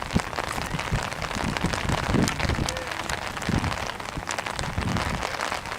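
Steady patter of rain, many small drop ticks over an even hiss, with low rumbles underneath.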